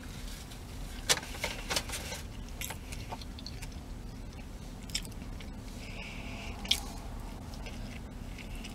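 A person biting into and chewing a burger close to the microphone, with a few sharp mouth clicks, the loudest about a second in and near the end.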